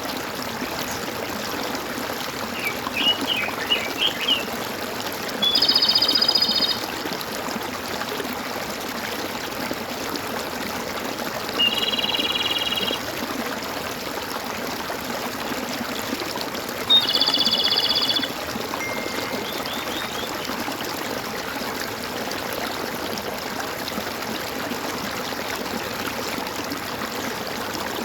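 Water trickling and gurgling in a small stream, with birds calling over it: three louder one-second calls about six seconds apart and a few quick chirps.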